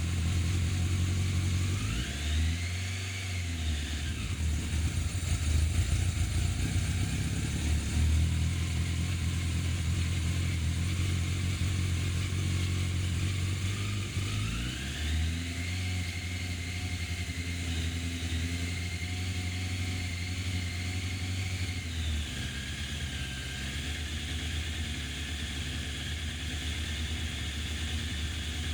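Yamaha FZ750 inline-four motorcycle engine running on its first start after a rebuild and refit in the frame. Its revs rise and fall about two seconds in, then rise again and hold for several seconds before dropping back to a steady fast idle near the end.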